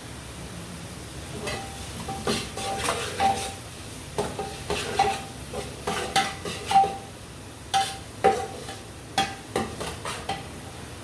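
A spoon stirring vegetables frying in a metal pot: irregular scrapes and clinks against the pot, many with a short ringing note, over a light sizzle.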